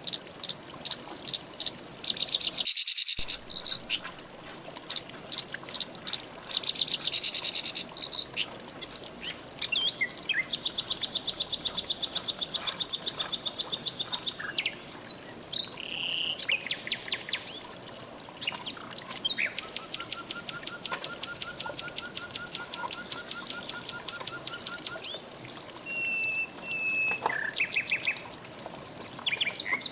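Several songbirds singing: fast runs of repeated high chirps and trills, one voice after another, over a steady high-pitched insect drone. The sound cuts out completely for a moment about three seconds in.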